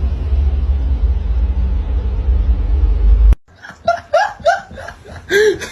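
A loud, steady low rumble that cuts off suddenly a little over three seconds in, followed by short bursts of a person's voice.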